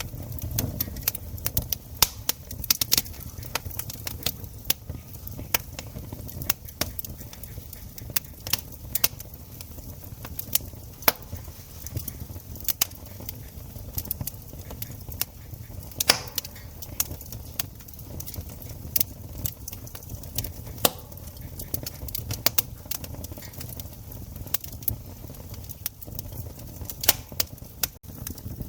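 Wood campfire crackling, with many sharp, irregular pops and snaps over a low, steady rumble.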